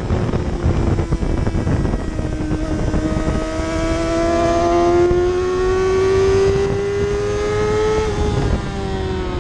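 Superbike engine under hard acceleration, its note rising slowly and steadily for several seconds before dropping back about eight seconds in, with heavy wind rush.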